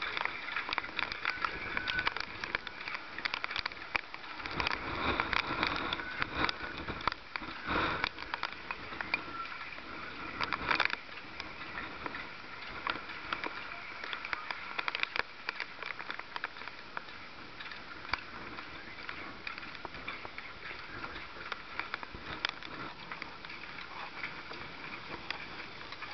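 Rough sea: waves washing and splashing, heard as a steady hiss full of small crackles, with a heavier surge about five seconds in.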